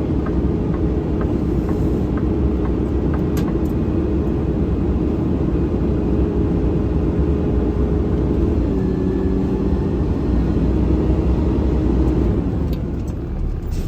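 Garbage truck running while driving, heard from inside the cab: a steady low engine and drivetrain rumble with a whine that drops briefly about nine seconds in.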